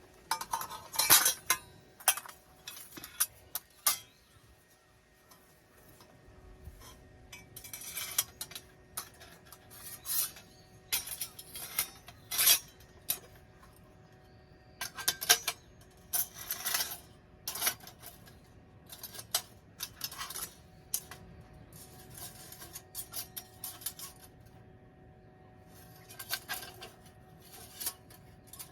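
Irregular clinks and clatters of metal gear being handled, like cookware and utensils knocking together, some sharp strikes and many lighter taps with short pauses between.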